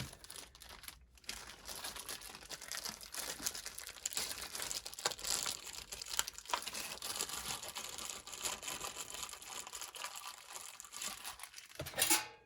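Continuous crinkling and rustling of plastic packaging or paper being handled, with small clicks of parts among it. There is a louder crinkle near the end.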